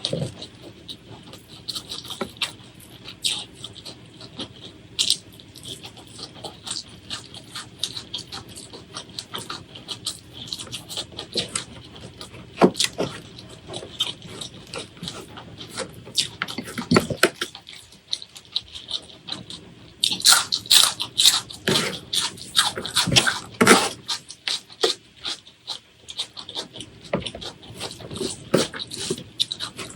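Close-miked eating sounds: chewing and wet lip-smacking, a steady stream of quick sharp clicks that grows busier and louder about two-thirds of the way through.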